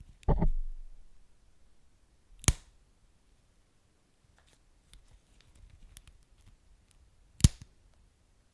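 Wood fire crackling: sparse faint ticks, a dull thump right at the start, and two loud sharp pops about five seconds apart.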